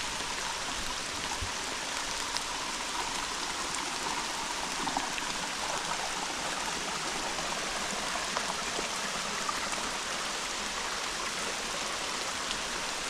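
Rain-swollen, flooded creek rushing in a steady, unbroken roar of water, with rain falling.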